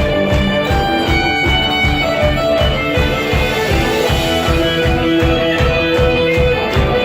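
A band playing an instrumental passage, with a steady pulsing beat in the bass and sustained melody notes over it, plucked strings and possibly a fiddle among them.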